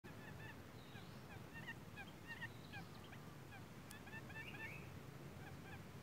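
Birds calling: a dense run of short, quick chirps, several overlapping at a time.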